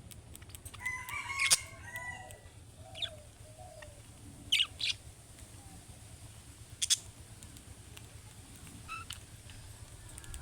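Budgerigars chirping: a short warbled phrase about a second in, then scattered sharp single chirps, two close together past four seconds and another near seven.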